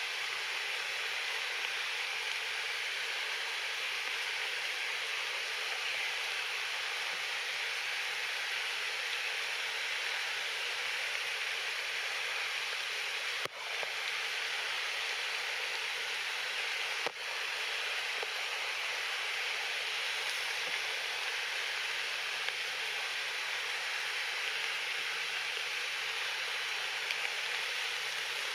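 Steady rain falling, an even hiss, broken by two brief dips about halfway through.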